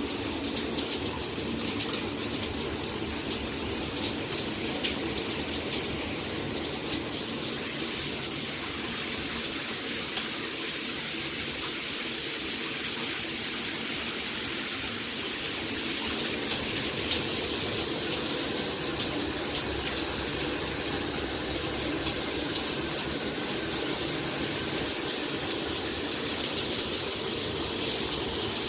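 Shower head spraying water steadily in a bathroom, a little softer for several seconds about a third of the way in.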